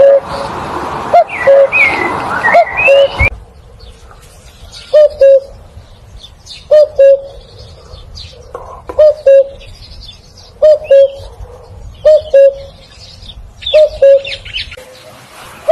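Common cuckoo calling its two-note "cu-ckoo", a higher note then a lower one, repeated about every two seconds, with small birds chirping higher and fainter around it.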